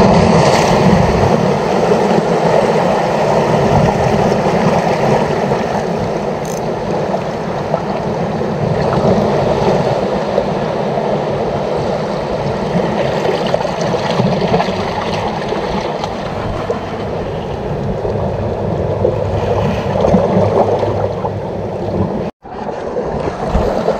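Sea waves washing on the shore with wind on the microphone, a steady muffled rush that cuts out for an instant near the end.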